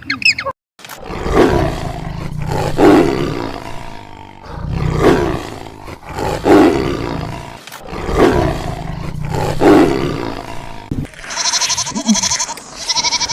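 A large animal roaring, six long roars at even spacing. Near the end a different, higher animal call with a fast pulsing quality takes over.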